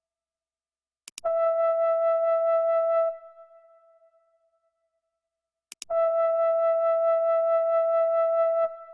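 A synthesizer sounding one held note twice at the same pitch, each about two to three seconds long, starting with a click and fading out after release.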